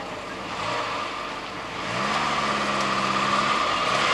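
Ford Capri engine pulling away: the engine note rises sharply about two seconds in, holds steady, and falls off near the end.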